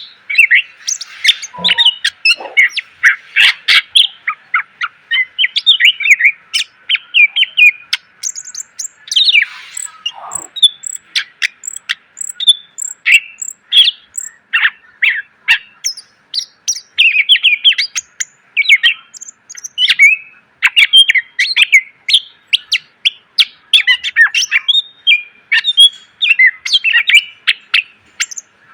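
Green leafbird (cucak ijo) singing a fast, unbroken stream of varied chirps, whistles and quick trills. The song is full of interlaced 'isian' phrases, the borrowed calls of other birds that make up a full-voiced song.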